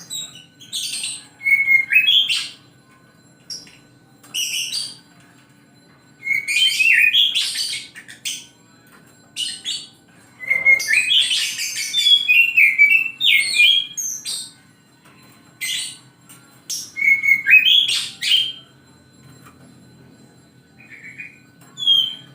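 Oriental magpie-robin (kacer) singing: loud phrases of whistles mixed with harsher, scratchy notes, given in bursts of one to four seconds with short pauses between them.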